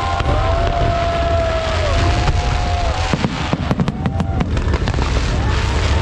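Aerial fireworks over a steady deep rumble of shell bursts. Gliding whistles sound in the first half, and a dense run of sharp crackling pops starts about halfway through.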